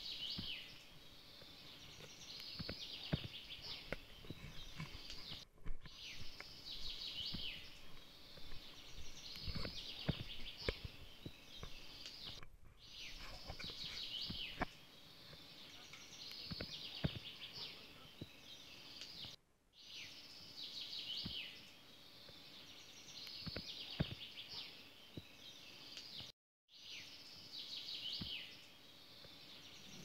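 A songbird singing the same short chirping phrase over and over, about every two and a half seconds, over scattered footsteps and knocks. The sound drops out briefly four times.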